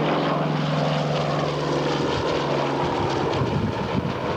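A Lockheed Neptune's twin radial piston engines drone as it makes a slow, low pass. The engine note drops in pitch about two seconds in as the aircraft goes by.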